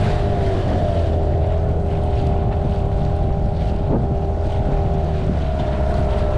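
Small boat's outboard motor running at a steady speed, with wind buffeting the microphone.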